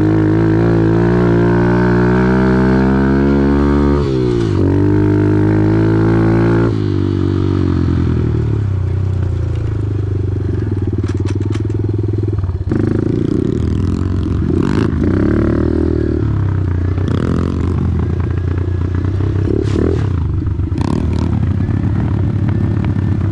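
Off-road motorcycle engine revving hard, its pitch climbing, dropping about four seconds in, then climbing again. A few seconds later it changes abruptly to a steadier, lower running sound with scattered clicks and clatter.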